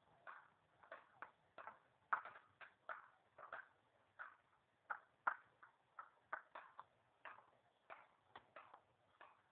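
A faint, irregular series of short, sharp clicks or taps, about two or three a second.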